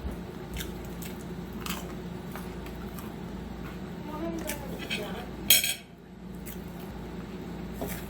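Cutlery clinking and scraping on dishes while eating, a scatter of light clicks over a steady low hum, with one louder brief scrape or rustle about five and a half seconds in.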